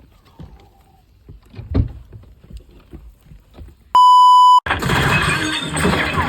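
Low ambience with a few faint knocks, then about four seconds in a loud, steady electronic beep at one pitch that lasts just over half a second and cuts off sharply, followed at once by loud background music.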